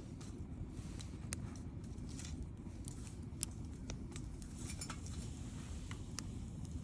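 Wood campfire burning: a steady low rush of flame with irregular sharp crackles and pops of burning wood, the loudest pop about halfway through.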